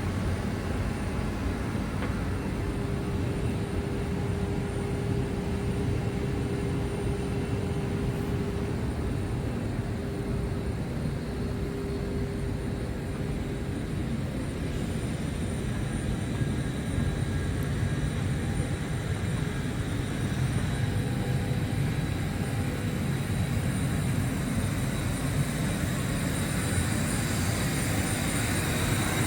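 Airbus A319 airliner heard from inside the cabin: steady jet engine and airflow noise with faint high and mid-pitched whines running under it, growing slightly louder near the end.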